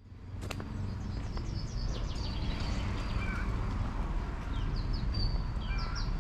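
Small birds singing: a run of quick, high chirps and short down-sweeping notes repeated throughout, over a steady low rumble.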